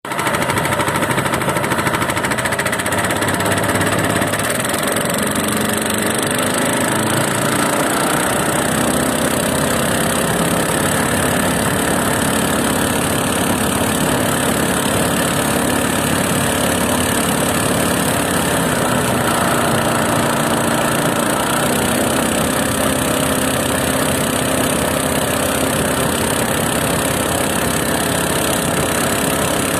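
An 8 hp Lifan single-cylinder four-stroke engine running steadily on a homemade mud motor (surface-drive boat motor) fitted with a cast 10x8 propeller. Its speed shifts a little now and then.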